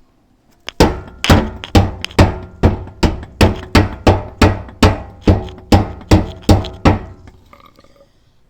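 A hammer rapping the steel fuel tank of a Toyota Duet about fifteen times in quick succession, about two hits a second, each hit ringing briefly. The tapping is meant to jar the car's stuck in-tank electric fuel pump back into working so the engine will start.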